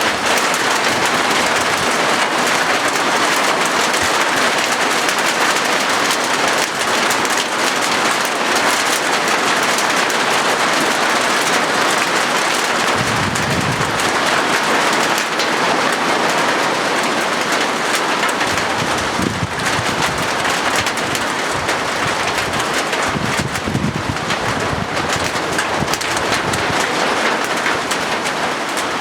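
Rain falling steadily on a corrugated zinc roof. A low rumble swells briefly a few times, around the middle and again later.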